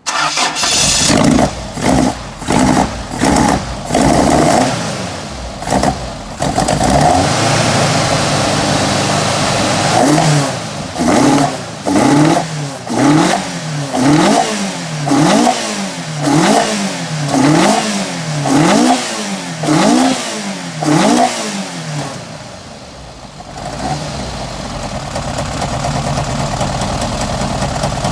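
Toyota AE86 Levin's 4A-G 1.6-litre twin-cam four-cylinder, with high-lift cams and individual throttle bodies, free-revved in repeated quick throttle blips a little faster than one a second, then dropping back to a steady idle near the end. The engine is running well with no particular problems.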